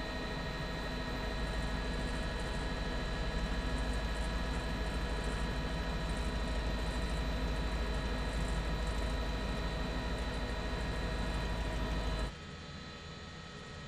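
Steady news-helicopter cabin noise with a deep rumble and a constant electrical-sounding hum, which drops suddenly to a much quieter hum about twelve seconds in.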